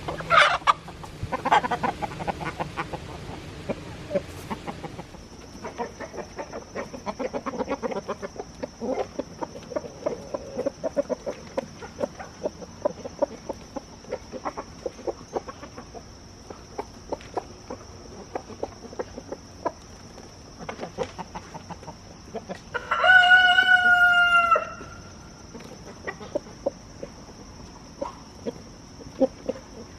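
Backyard chickens clucking and calling, with a few loud squawks at the start, then a rooster crowing once, held for about two seconds, a little past the three-quarter mark.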